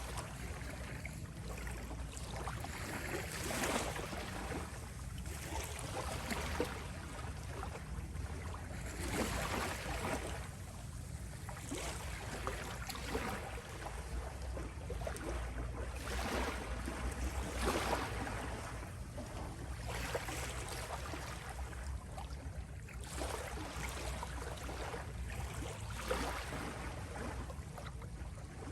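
Gentle sea waves washing onto a shore, each wash swelling and fading every few seconds over a steady low rumble of surf.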